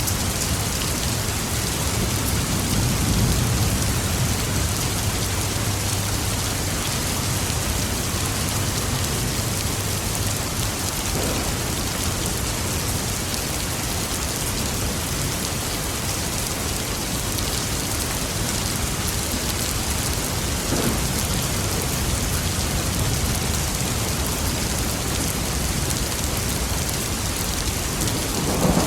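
Steady heavy rain falling, with a low thunder rumble swelling in the first third. A louder thunder peal begins right at the end.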